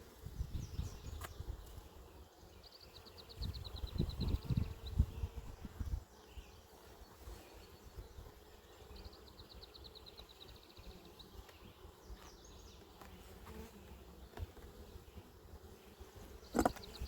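Honey bees buzzing around an open hive with a faint steady hum. There is low rumbling in the first six seconds, a high rapid trill twice, and a sharp click near the end.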